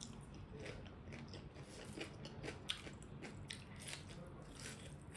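A person chewing raw red onion, with many small crisp crunches and one sharper crunch about halfway through.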